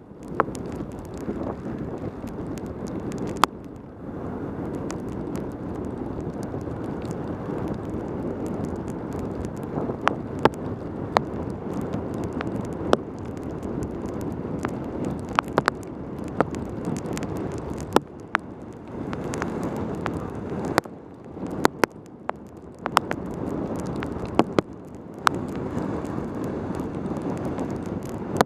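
Wind buffeting a helmet camera's microphone on a fast mountain-bike descent down a wet road, with a steady rush of wind and tyre noise and many sharp clicks and knocks scattered through it. The rush drops away briefly a few times, around 3 s, 18 s and 21 s in.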